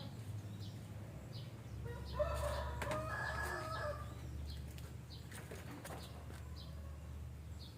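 A rooster crows once, starting about two seconds in and lasting around two seconds. Short high chirps from lovebirds recur throughout.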